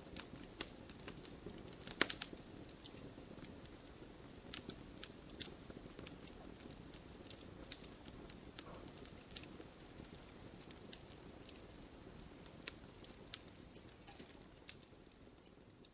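Wood fire burning in a fireplace: a steady low hiss and rumble of flames with frequent irregular crackles and pops, the sharpest about two seconds in.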